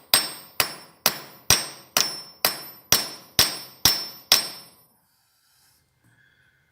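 A hammer striking metal in a steady rhythm, about two blows a second, each one ringing. About ten blows, stopping about four and a half seconds in.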